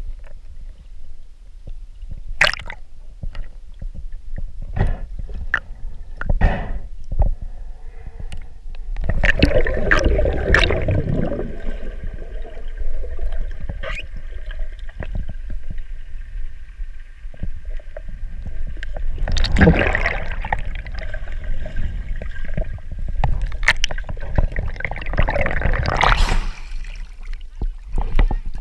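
Underwater gurgling and bubbling in several bursts, with scattered sharp clicks and knocks in between.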